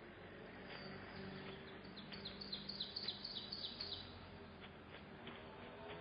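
A small bird chirping a quick run of short, high, falling notes about two to four seconds in, over steady faint outdoor background noise.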